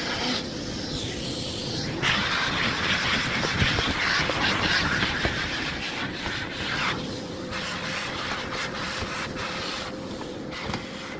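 Miele Blizzard CX1 bagless cylinder vacuum cleaner running, with a steady motor whine. The hiss of air rushing through the nozzle grows louder about two seconds in and drops back about seven seconds in.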